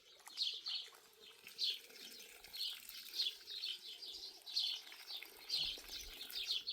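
Small birds chirping: short, high, falling chirps repeated about twice a second.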